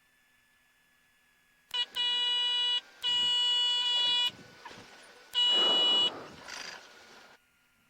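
Cessna 182 stall warning horn sounding in three blasts of a steady, unchanging tone as the plane flares to land in a gusty crosswind, the wing close to the stall. Low bumps and a rumbling noise come between and after the later blasts.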